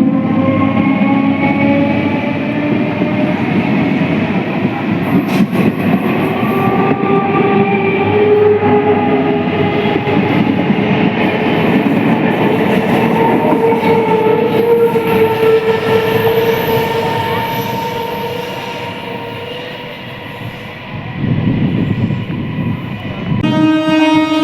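Indian Railways EMU train running past at close range: a loud rumble and wheel clatter, with drawn-out tones that slide slowly down in pitch. The noise eases off about three-quarters of the way through, then swells again. Near the end a steady, even-pitched tone starts suddenly.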